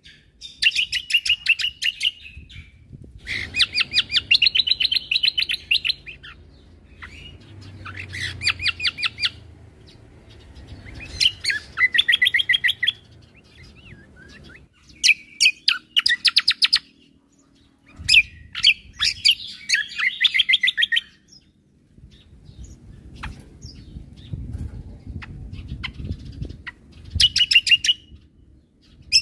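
A cucak kombo (kecial kombo) songbird singing vigorously in repeated bursts of rapid, high chattering trills, each a second or two long with short pauses between: the fast 'tembakan' (shooting) phrases used in masteran song-training recordings.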